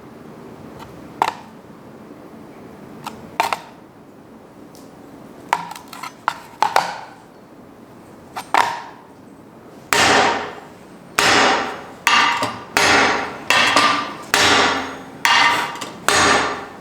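Hammer striking a small hand-made anvil with a steeled face, which rings after each blow. A few scattered lighter knocks come first, then from about ten seconds in a steady run of hard blows, a little over one a second, each ringing out before the next.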